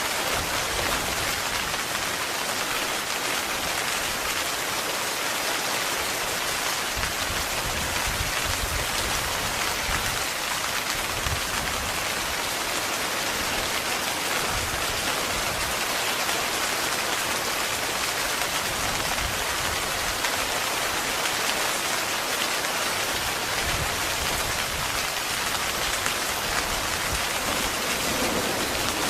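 Heavy rain falling steadily on a tent, a dense, even hiss of drops.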